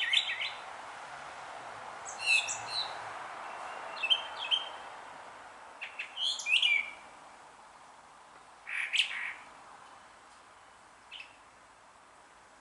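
Brown thrasher singing: short, varied phrases of chirpy notes every couple of seconds, some phrases given in quick pairs, over a steady background hiss.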